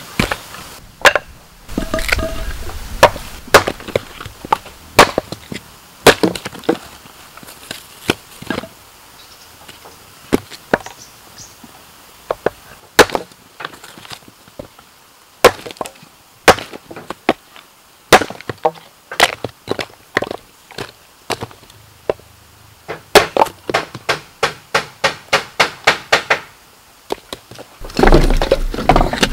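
Sharp, irregular knocks of a tool striking bamboo, as in chopping or shaping bamboo poles. Near the end the blows quicken to a fast run of about three a second, followed by a dense, splintering stretch.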